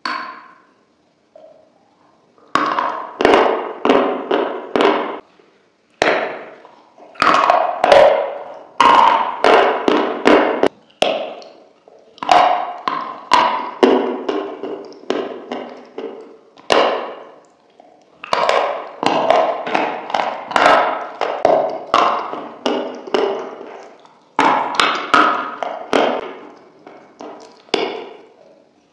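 Close-miked crunching: bites into flat crisp pieces loaded with a thick white cream, then crunchy chewing, in several bursts of rapid sharp crunches with short pauses between them.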